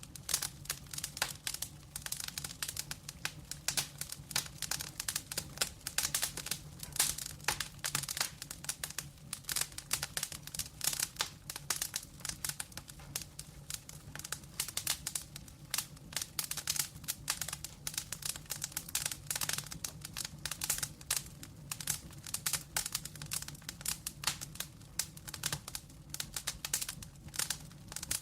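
Burning logs in a wood fire crackling, with dense, irregular pops and snaps throughout, over a steady low hum.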